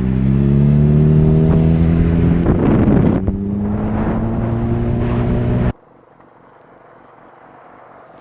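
Motorcycle engine running under way, its pitch rising slowly as it accelerates, with a brief rush of noise about two and a half seconds in. Just before six seconds in it cuts off suddenly to a much quieter, low engine pulsing.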